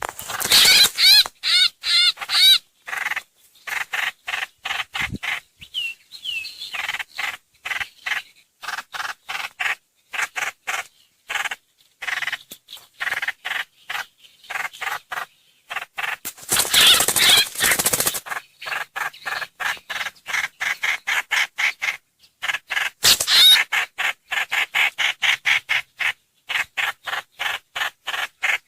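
Trao trảo (hoành hoạch) bird calling: a steady run of short repeated notes, about three a second, broken by louder harsh chattering bursts near the start, about two-thirds of the way in and again a little later. This is a call recording played as a lure to draw in the bird.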